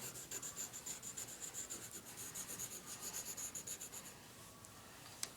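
Coloured pencil scribbling back and forth on paper to colour in a drawing, in quick even strokes about six or seven a second. The strokes stop about four seconds in, and a single click follows near the end.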